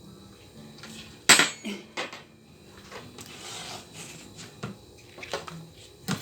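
Cutlery and dishes clinking in a handful of sharp knocks, the loudest about a second in, while the stew is handled.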